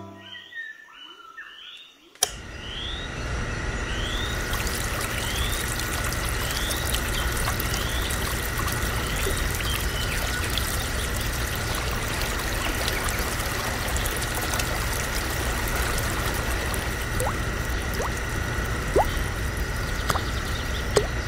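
Water trickling steadily from a miniature model pump's straw spout, starting with a click about two seconds in.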